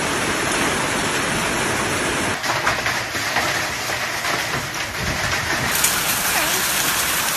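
Heavy hail and rain pelting down in a severe thunderstorm: a dense, steady hiss full of small rapid hits. The sound changes abruptly about two and a half seconds in and again near six seconds.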